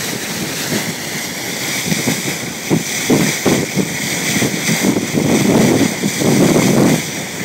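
Wind buffeting the microphone in uneven gusts over the steady rush of water along the bow of a boat underway.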